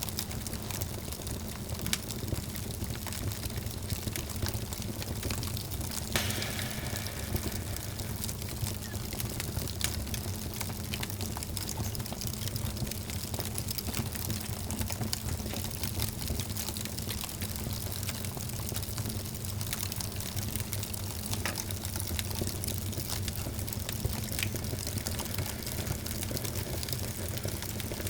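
Wood fire burning in a fireplace: a steady low rumble of flames with frequent small crackles and pops, one louder pop about six seconds in.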